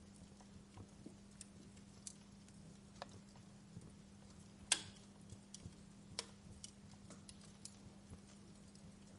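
Wood fire crackling in a fireplace: faint irregular pops and snaps, one sharper pop about halfway through.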